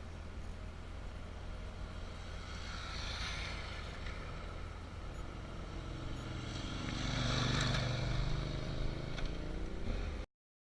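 Two motor vehicles passing by, one about three seconds in and a louder one about seven seconds in with an audible engine note, over a steady low rumble. The sound cuts off abruptly near the end.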